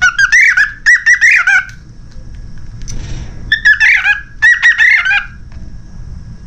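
Cockatiel chirping in two loud runs of quick, wavering notes, each about two seconds long, with a pause between them.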